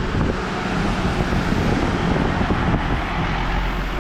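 A motor vehicle's engine hum under a steady rushing noise.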